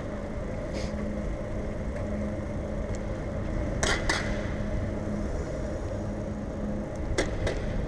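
Steady rolling noise of a bicycle being ridden, with a low hum underneath. A few short sharp clicks or rattles come about four seconds in and again near the end.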